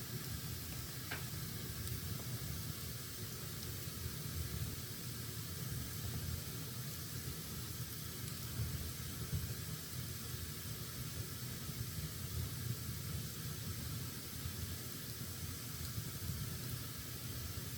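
Wood fire burning in a fireplace: a steady hiss over a low rumble, with a faint crackle about a second in.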